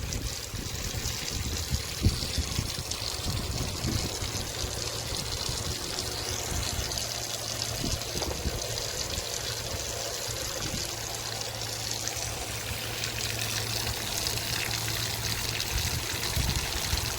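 Mineral spring water trickling and running steadily over travertine terraces, with a low uneven rumble underneath.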